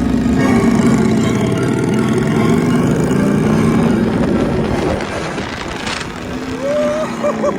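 Motorbike roller coaster ride from the front seat, loud and steady: wind rushing over the microphone and the train rumbling along the track, mixed with a wavering motorbike-engine drone. Short warbling tones come in near the end.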